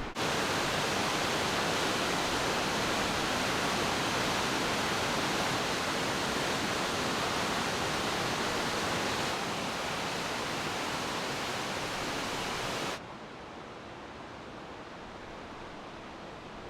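Gibbon Falls waterfall rushing: a steady, even roar of falling water. About 13 seconds in it cuts abruptly to a quieter, softer rush.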